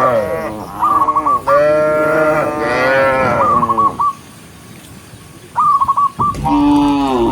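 Cattle mooing several times, including one long moo lasting about two seconds early on, then a lull before another moo near the end. A short, high, repeated chirping call recurs between the moos.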